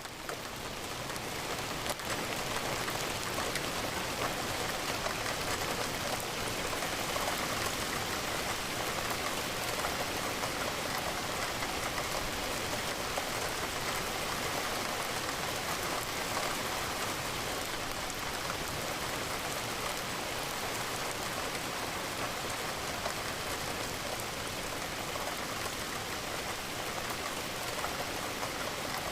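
Steady rain falling against a window, an even dense patter of drops. It swells back in over the first second or two after a brief dip.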